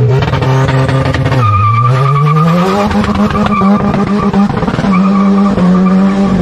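Honda Civic's four-cylinder engine revved up sharply and held at high revs while its tyres spin and squeal. The revs dip briefly about a second and a half in, then climb again and hold steady.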